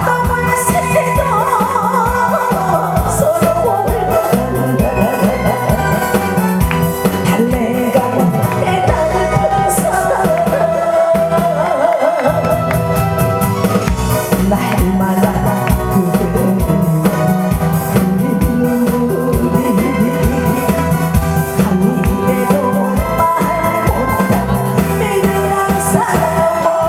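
A song performed live: a singer's voice with heavy vibrato over accompanying music with a steady drum beat.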